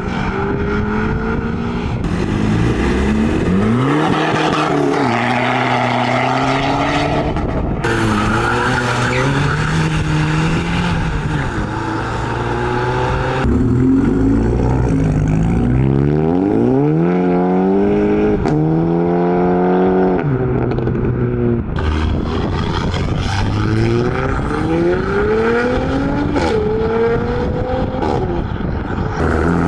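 Modified cars' engines revving and accelerating away one after another, the pitch climbing hard and dropping back at each gear change.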